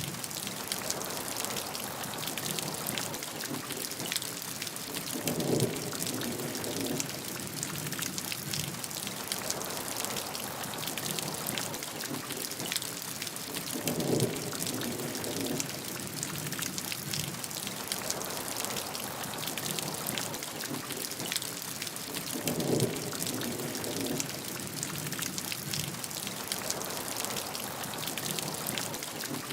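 Steady heavy rain, with dense patter of individual drops over a constant hiss. A short, low, muffled swell comes about every eight seconds.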